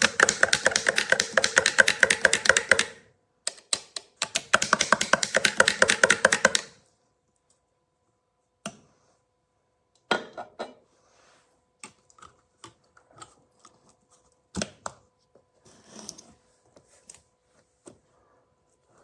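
A spoon stirring coffee grounds and hot water in a borosilicate glass French press carafe. It clinks rapidly against the glass for about seven seconds, with a brief pause after about three seconds, then gives only scattered single taps and clinks.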